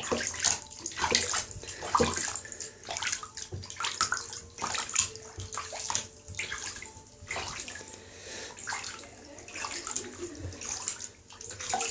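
A galah (pink-and-grey cockatoo) bathing, splashing water in quick, irregular splashes.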